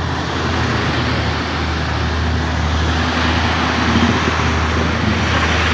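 Road traffic on a steep uphill climb: a heavy vehicle's engine droning steadily under load, with a low hum and even tyre and road noise.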